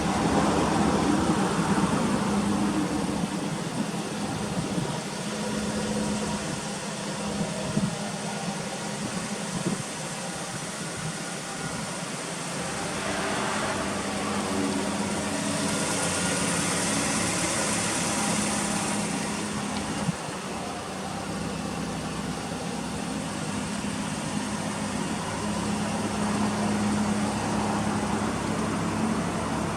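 Toyota Altezza RS200's four-cylinder engine idling steadily, fitted with an aftermarket exhaust manifold and 5ZIGEN muffler. A hiss rises and fades about midway.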